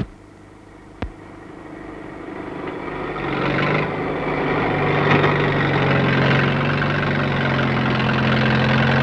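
A heavy engine running steadily with a low hum, swelling in from faint to full over the first few seconds. A single sharp click about a second in.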